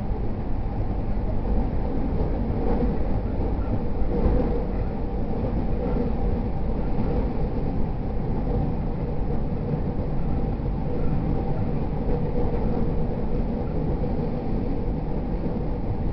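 JR East E231 series 0 commuter train running between stations: a steady low rumble of wheels on rail with a faint steady hum over it.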